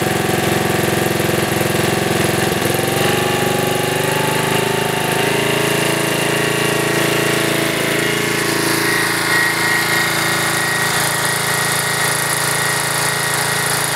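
Single-cylinder 8 HP Briggs & Stratton engine of a 1997 Snapper rear-engine riding mower running, its pitch rising between about three and five seconds in and then holding steady. A thin high whine joins in about two-thirds of the way through.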